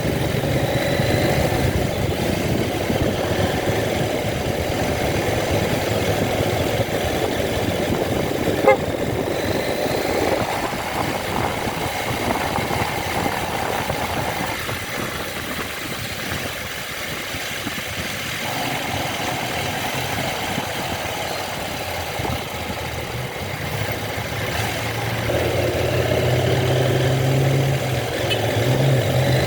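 Motorcycle engine running while riding, its pitch rising and falling, over road and wind noise. A single short click about nine seconds in.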